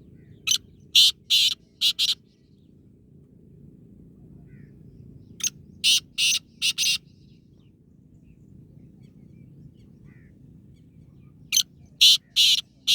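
Black francolin calling: three phrases of four or five short, harsh notes, each phrase about five seconds after the last, over a faint low hum.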